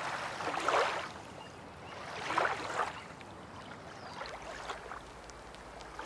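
Damp makeup sponge patted and pressed against the skin of the face, close to the microphone: soft, wet swishing in three or four swells, each under a second.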